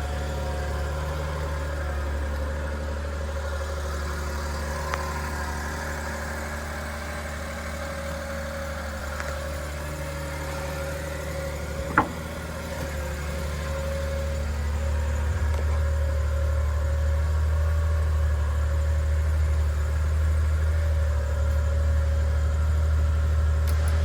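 1998 Suzuki Carry kei truck's small three-cylinder engine idling steadily, with one sharp click about halfway through. The low hum grows louder in the second half.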